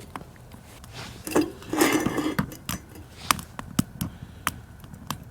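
Camp cookware and utensils being handled: scattered light clicks and knocks, with a couple of brief scraping sounds in the first half.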